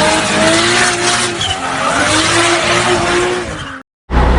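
Car engine revving hard with tyres screeching, as in a burnout or skid. The engine note rises and falls over a loud tyre noise, and it cuts off abruptly a little before the end.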